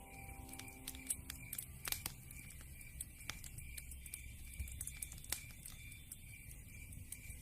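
Log fire crackling: irregular sharp pops and snaps over a low, steady rumble of burning.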